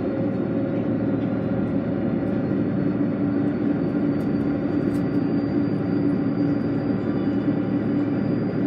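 Steady drone of a running vehicle, with a constant hum.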